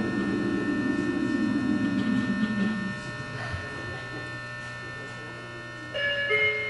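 Tokyo Metro 03 series chopper-controlled subway car drawing to a stop: the running noise fades out about three seconds in, leaving a steady electric hum from the car's equipment at standstill. A few short tones start near the end.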